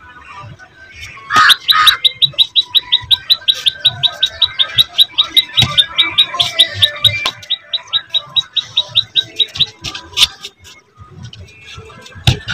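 A bird calling a rapid series of short, high chirps, about five a second, which stop about ten seconds in, with a few scattered knocks.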